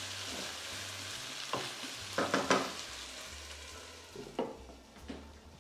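Potato pieces sizzling in hot oil and chicken fat in a frying pan as they are stirred, the utensil knocking and scraping against the pan several times. The sizzle fades toward the end.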